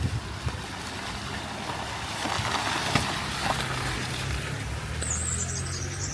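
Rain falling steadily, with a low steady hum coming in about halfway and a high, wavering squeak starting near the end.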